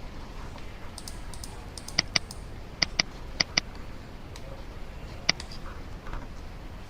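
Computer mouse clicking: several sharp clicks, mostly in quick pairs, with a few fainter ticks before them over a faint steady hiss.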